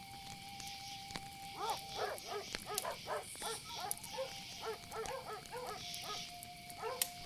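Night wildlife ambience: a steady insect chorus and a sustained high trill, joined about a second and a half in by a run of short, repeated barking calls, two or three a second.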